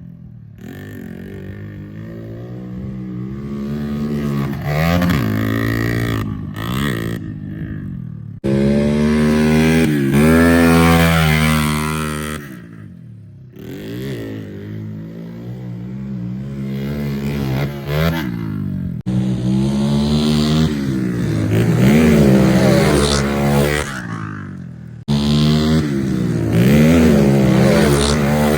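Pit bike engines revving up and down again and again as the bikes are ridden, the pitch rising and falling with the throttle. The sound changes abruptly a few times, as from one clip to the next.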